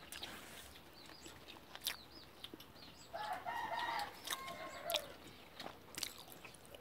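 Faint bird calls, with one longer pitched call lasting about a second a few seconds in, amid light clicks and taps of people eating by hand from bowls.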